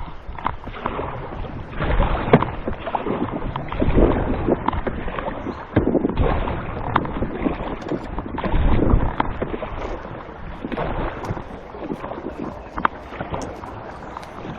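Canoe paddle strokes splashing and swirling in the water, a surge about every two seconds, with wind buffeting the microphone and light knocks against the hull.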